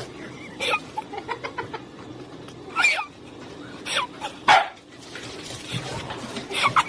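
A dog giving a series of short barks and yips, spaced irregularly, with a cluster of quick calls near the end.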